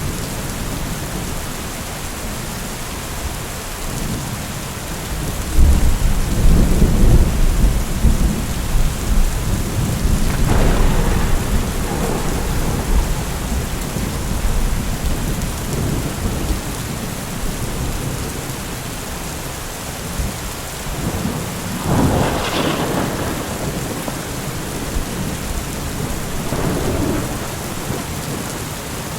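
Steady heavy rainfall in a thunderstorm. About five seconds in, a long low roll of thunder builds and rumbles on for several seconds, and a shorter, sharper thunder peal comes past the middle.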